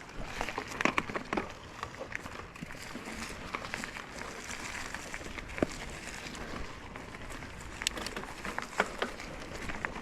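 Mountain bike riding over a rocky dirt trail: tyres crunching over stones, with scattered sharp clicks and knocks from rocks and the bike rattling.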